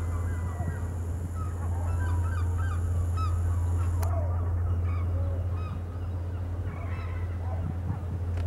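Birds giving many short overlapping calls over a steady low hum.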